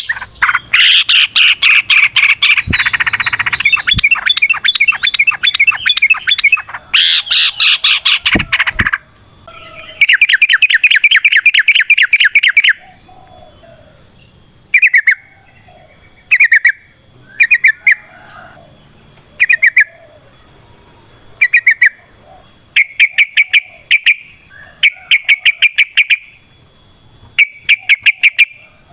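Yellow-vented bulbul (trucukan) singing loud, rapid runs of bubbling repeated notes. Long unbroken runs for the first half give way to short bursts about every second and a half, with longer runs again near the end.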